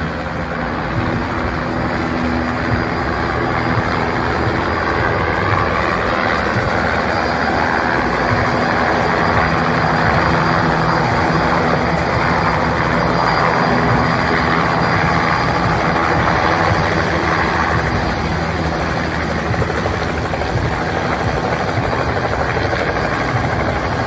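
Helicopter running close by, a steady rotor and engine noise that grows somewhat louder over the first several seconds and then holds.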